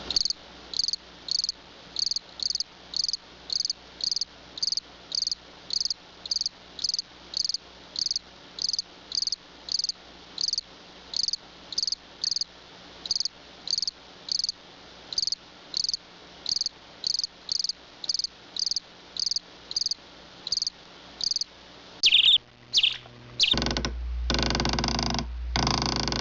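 Cricket chirping in a steady rhythm of about two high chirps a second, the stock sound effect for an awkward silence. Near the end it gives way to a few sweeping sounds and then louder, noisy sounds.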